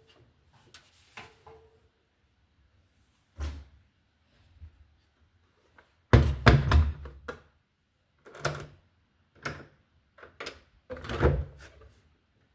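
A series of separate thuds and knocks with quiet gaps between them: one about three seconds in, a loud cluster about six seconds in, and several more towards the end. No machine is heard running.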